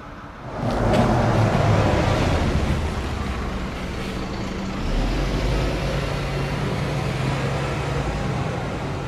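A large engine starts up loudly and keeps running, with a surge in its low rumble about five seconds in.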